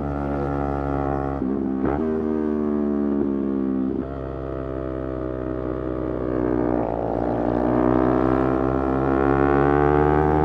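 Motorcycle engine under way: the engine note eases down through the first few seconds with a quick sharp change about two seconds in, then after a dip past the middle the revs climb steadily and louder as it accelerates.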